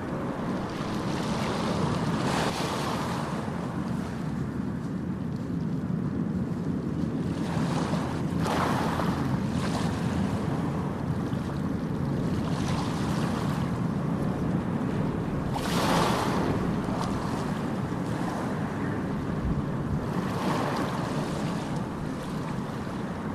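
Ocean surf: waves breaking and washing in over a constant rumble, a fresh surge every few seconds, the biggest about two-thirds of the way through.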